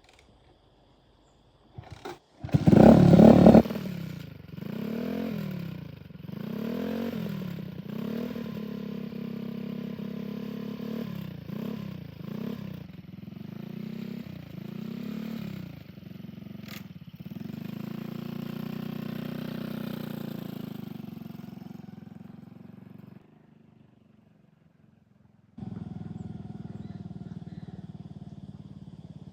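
Motorcycle engine: a loud burst about two to three seconds in, then the engine revving up and down several times and running on steadily. It drops away about three-quarters of the way through and comes back more quietly near the end.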